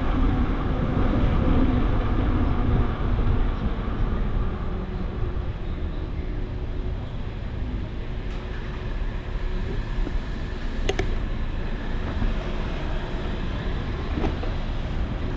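Steady low rumble of wind on the microphone and road traffic, heard from a moving bicycle, with a single sharp click about eleven seconds in.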